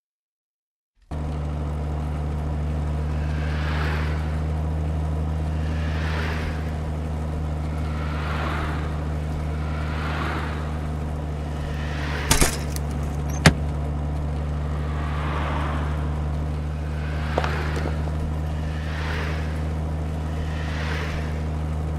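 A heavy truck's engine drones steadily, starting about a second in, with a swelling whoosh about every two seconds and two sharp clicks about halfway through.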